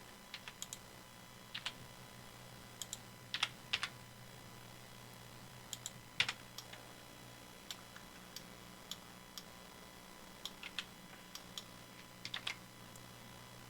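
Computer keyboard and mouse being used: about twenty short, irregular clicks, some in quick pairs, over a faint low steady hum.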